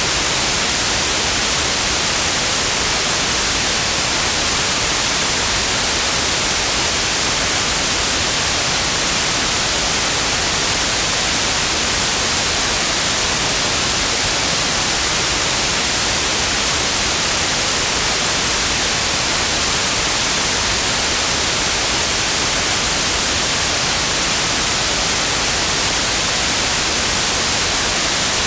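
Synthesized white noise: a steady, even hiss, strongest in the treble, that never changes in level.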